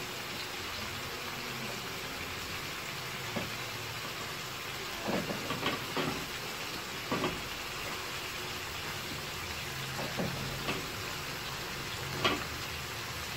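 Chicken frying in oil in a pan with a steady sizzle. A few short, louder spits and soft knocks come as tomatoes are set into the hot oil.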